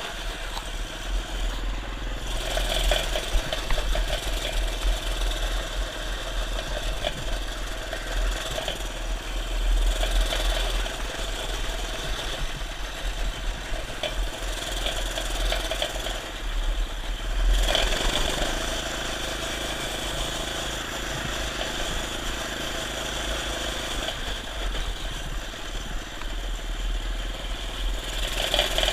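Minibike engine running as the bike is ridden, swelling louder several times as it is throttled up and settling back between.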